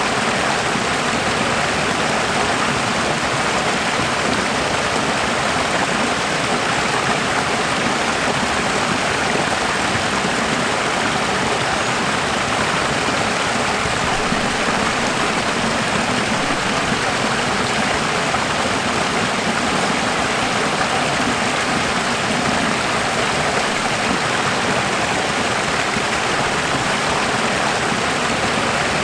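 Running water flowing steadily, an even unbroken rush.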